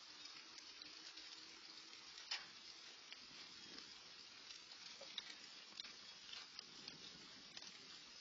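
Faint steady rain falling, a soft hiss with scattered drop ticks, one sharper tick a little over two seconds in.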